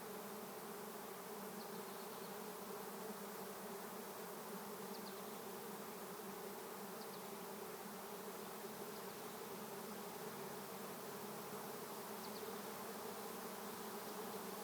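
A swarm of honey bees in flight, hundreds in the air, making a steady, even hum as they gather to move into a swarm box.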